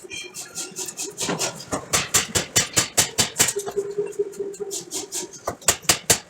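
Forging hammer striking steel in a quick, even series of sharp blows, about five a second, over a steady machine hum.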